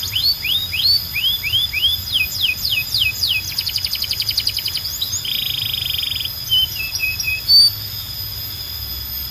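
Canary singing: a run of short rising whistled notes, then quick falling slurs and a fast trill, then a buzzy rolling trill about five seconds in, followed by a few short notes before the song stops near the end.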